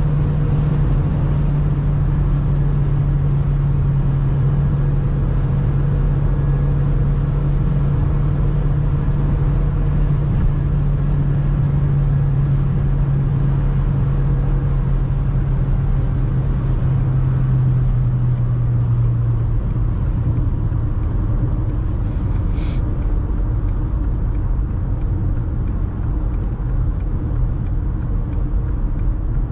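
Cabin sound of a 2002 Skoda Octavia's 1.8-litre turbo four-cylinder petrol engine cruising at high speed, a steady drone under road and wind noise. About two-thirds through, the engine drone drops away as the car lifts off and slows, leaving mainly tyre and wind noise.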